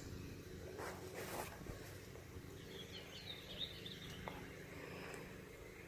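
Faint outdoor background with a cluster of faint bird chirps about three seconds in, and a brief rustle about a second in.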